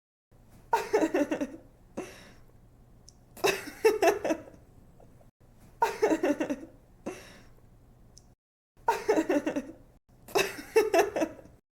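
A young woman laughing in five bursts of quick, repeated giggles, with short pauses between the bursts.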